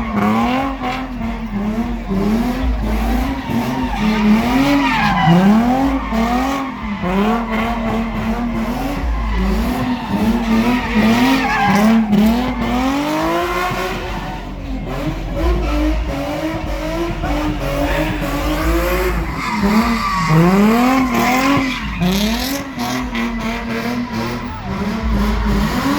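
A car doing donuts: its engine revving up and down over and over, about once a second, with tyres squealing and skidding on the pavement.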